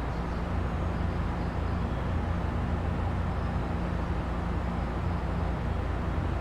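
Odakyu 3000 series electric train car giving a steady low hum with a faint constant tone and no rising motor whine: the train is not yet accelerating.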